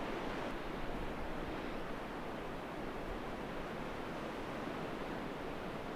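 Strong wind rushing past and buffeting the microphone: a steady, even rushing noise.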